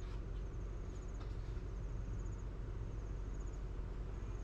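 Low, steady rumble of the train, with insects trilling in short high-pitched bursts about once a second.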